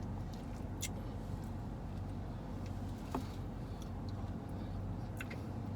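Steady low hum of a vehicle, with a few faint scattered clicks and taps.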